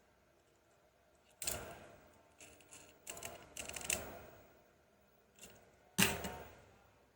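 Hard plastic toy vehicles being handled and knocked together: a few sharp knocks and clatters, a quick run of them in the middle and the loudest near the end.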